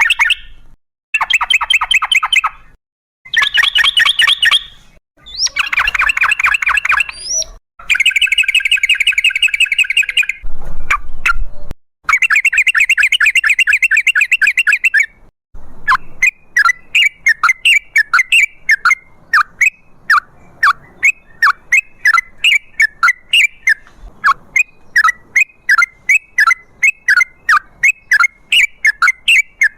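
Yellow-vented bulbul calling: bursts of rapid chattering notes a second or two long with short gaps between them, then, about halfway through, a long unbroken run of short, sharp notes at about three a second.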